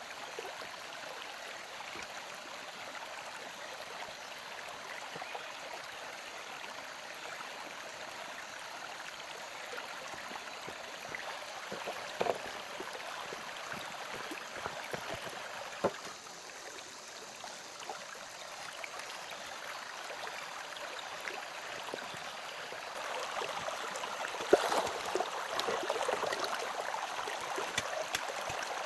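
Steady rush of running water, with a few sharp clicks or knocks scattered through it. The sound grows louder and busier about 23 seconds in.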